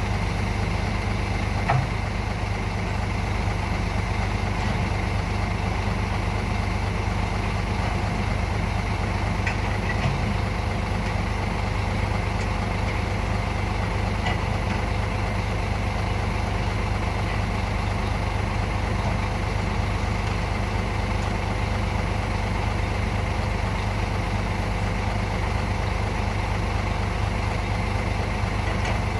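Heavy diesel truck engine running steadily at an even, unchanging pitch, with a couple of faint clicks.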